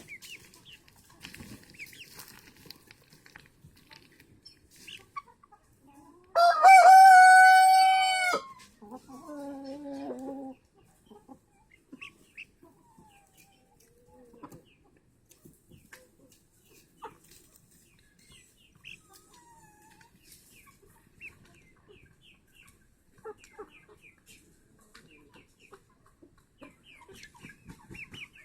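A rooster crows once, loud and drawn out, about six seconds in, ending on a lower, fading tail, with faint scattered clucks and short calls before and after.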